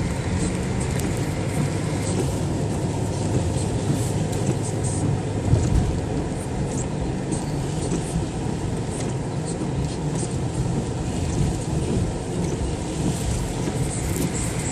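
Steady low rumble of a car running, with strong thunderstorm wind around it, heard from inside the cabin.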